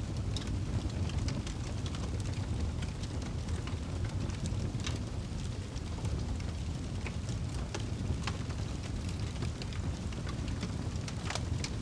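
Wood fire burning in a fireplace: a steady low rumble with irregular sharp crackles and pops from the burning logs, a cluster of louder pops near the end.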